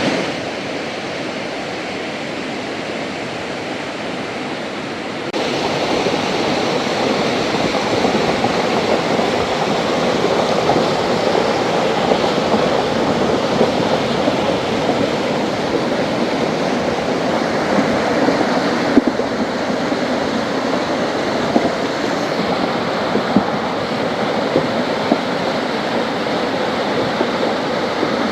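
Heavy rain pouring steadily, an even rushing noise that gets louder about five seconds in, with a few sharp drip-like ticks later on.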